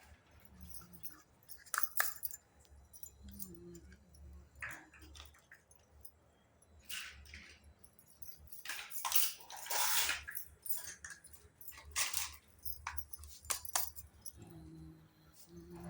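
Small plastic toy kitchen pieces and their packaging being handled: scattered light clicks, taps and rustles, with a busier cluster of rustling about nine to ten seconds in.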